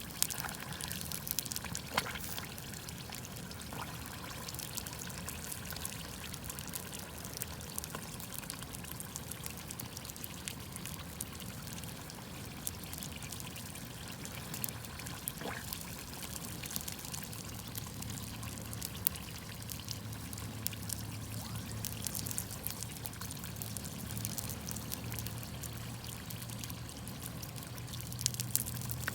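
Wood campfire crackling, with many small pops and a few sharper snaps, over a steady watery hiss.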